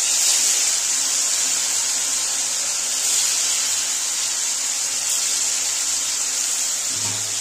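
Paneer cubes shallow-frying in hot oil, a steady sizzle.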